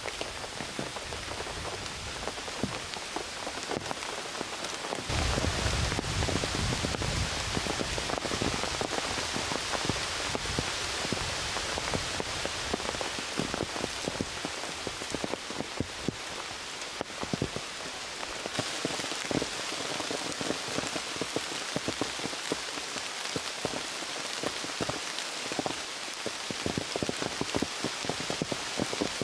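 Heavy rain falling, a dense patter of individual drops over a steady hiss. It grows heavier about five seconds in, with a low rumble underneath for a few seconds.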